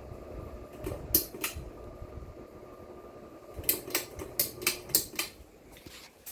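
Hampton Bay Montgomery II ceiling fan running with a steady hum. Sharp clicks sound over it: two about a second in, then a quick run of about six around four to five seconds in.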